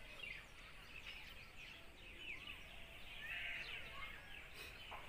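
Birds chirping in the background: many short, quick calls overlapping, with no single loud event.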